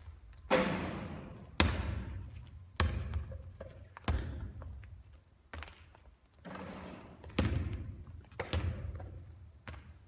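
Basketballs thudding on a court floor and against the hoop about once a second, each hit echoing through a large gym.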